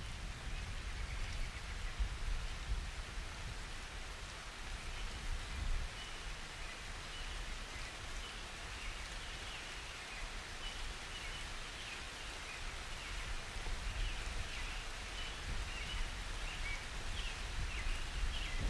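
Steady summer rain falling, with birds chirping repeatedly from about a third of the way in.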